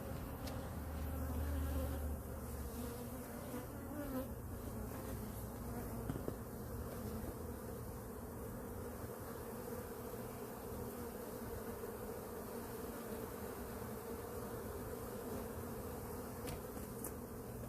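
Steady buzzing of many Italian honeybees flying around their hive, with a low rumble in the first couple of seconds.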